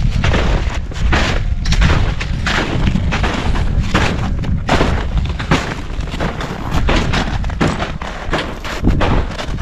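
Strong, gusty wind buffeting the camera microphone: a loud, continuous low rumble with irregular blasts as the gusts hit.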